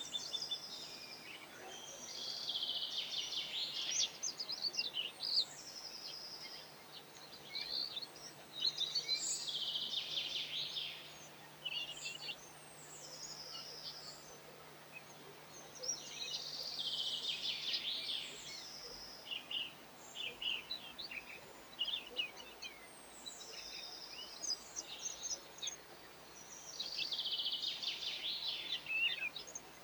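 A songbird singing in repeated phrases of quick high notes, each phrase about two to four seconds long with short pauses between, over a faint steady low hum.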